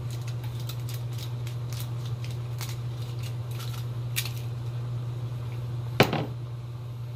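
Stir fry crackling in a hot cast iron skillet as the rest of a watered-down sauce is shaken from a bottle into it, with a steady low hum underneath. About six seconds in, the sauce bottle is set down on the counter with one sharp knock.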